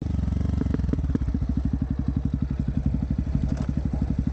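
Dirt bike engine running at low, steady revs with an even, rapid beat, heard from the rider's seat. A few light clicks and knocks come in the first second.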